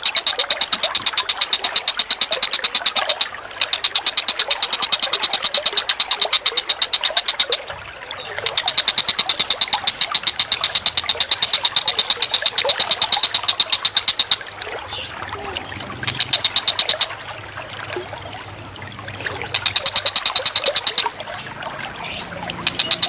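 Recorded bird chatter for birdsong training: a rapid ticking rattle, repeated in runs of a few seconds with short breaks, over a background of running water.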